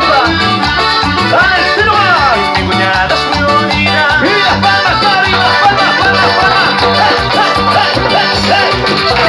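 Cumbia band playing an instrumental passage: a steady bass-and-percussion beat under a bending melodic line.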